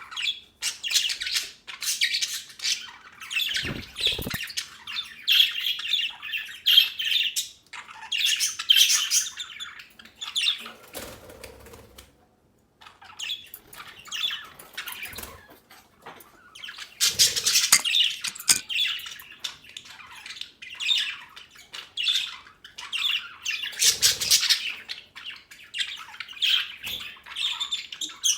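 A group of budgerigars chattering, chirping and squawking in quick, overlapping calls, with a brief pause a little before halfway.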